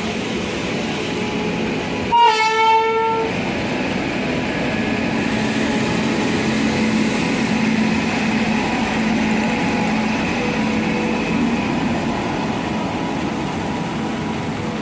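An Indian Railways WAP-7 electric locomotive gives a short two-pulse horn blast about two seconds in, then it and its passenger coaches pass at speed with a steady rumble of wheels on the rails, which swells as the train goes by.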